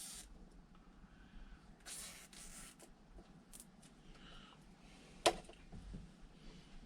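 Quiet workshop handling noises: a short scraping hiss about two seconds in and a single sharp click a little after five seconds.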